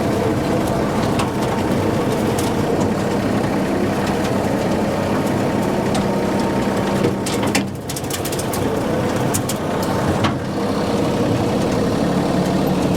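Tractor engine running steadily while driving a rotary brush hog mower through weeds. Scattered sharp clicks and knocks are heard between about seven and ten seconds in, and the engine sound dips briefly near eight seconds in.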